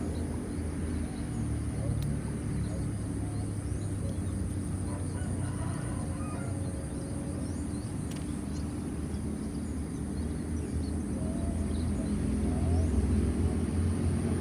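Outdoor ambience: a steady high insect buzz over a low rumble that grows a little louder near the end, with a few faint bird chirps.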